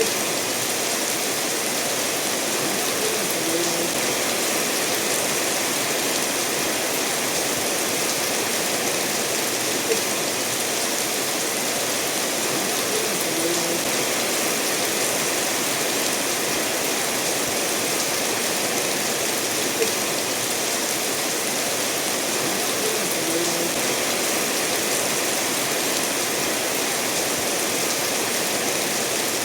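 Steady rainfall blended with a stream running over stones: an even, unbroken wash of water noise. A faint tick recurs about every ten seconds.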